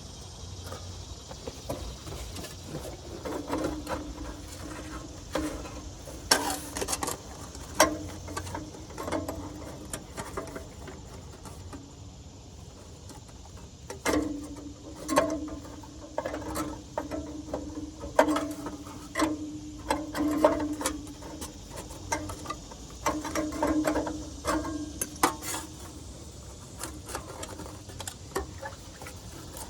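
Hand-tool work on a metal exhaust repair piece: two long runs of rhythmic metal strokes and clicks, roughly one or two a second, each run carrying a steady metallic ring, with a quieter pause between them.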